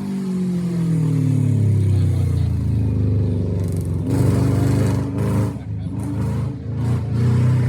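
Rally car engine, falling in pitch over the first few seconds as the car slows for the corner, then pulling hard again from about four seconds in, with brief breaks in the sound about five and six and a half seconds in.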